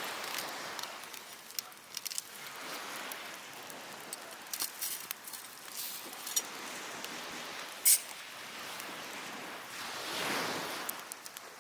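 Waves washing in on the beach in slow swells, the largest near the end, over a wood fire crackling and popping, with one sharp loud pop about eight seconds in.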